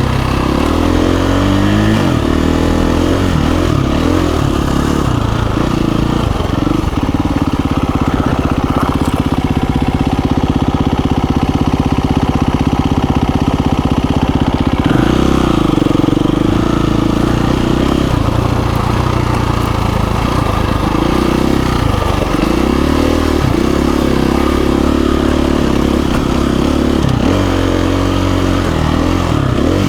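KTM 350 EXC-F dirt bike's single-cylinder four-stroke engine being ridden over a trail, revs rising and falling with the throttle and held steadier for several seconds in the middle.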